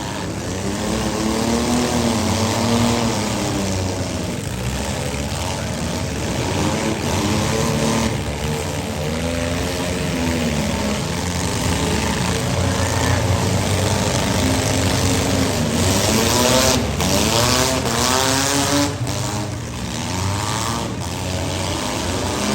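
Several compact-car engines revving up and down hard in a demolition derby, with a few sharp bangs of cars colliding in the later part.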